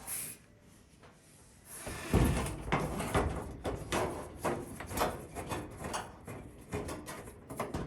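Screw being taken out of a GE dryer's sheet-metal cabinet: an irregular run of clicks, knocks and scraping that starts about two seconds in and carries on for several seconds.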